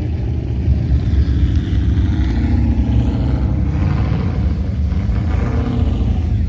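Classic car engine rumbling at low speed with a deep, steady exhaust note, swelling slightly about halfway through.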